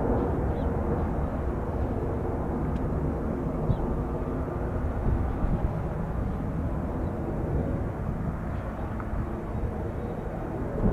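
Boeing 757-300 jet engines running, heard as a steady rumble with faint steady tones that eases off slightly.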